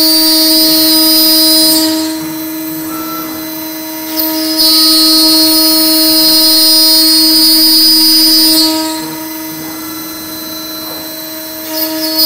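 CNC router spindle whining steadily while its bit cuts MDF, a loud hissing cutting noise over the whine. The cutting noise drops away twice for a couple of seconds, leaving only the spindle's whine, then comes back.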